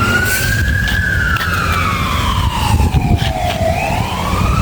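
Fire truck siren wailing: the pitch rises for about the first second, falls slowly for the next two and a half, then starts rising again near the end. A low rumble runs beneath it.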